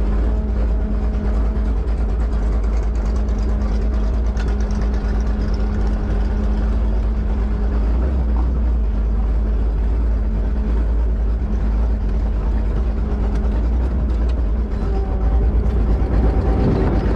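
1972 Plymouth Duster's 408 cubic-inch V8 running at a steady speed, getting somewhat louder near the end.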